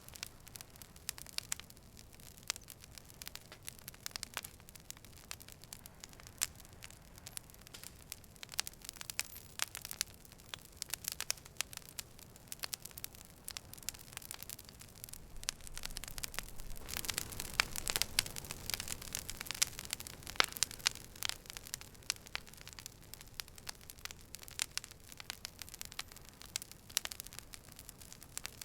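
Campfire crackling: irregular sharp pops and snaps over a soft hiss, busier and louder for a few seconds a little past the middle.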